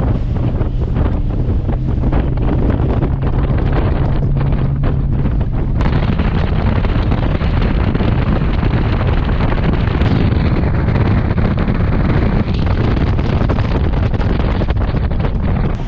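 Heavy wind buffeting the microphone over a boat's motor running steadily across the water. The engine's low steady hum is clearest in the first few seconds, then a louder rush of wind and water takes over.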